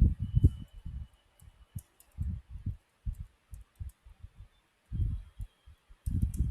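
Irregular muffled low thumps with faint light clicks, from a computer keyboard and mouse being worked.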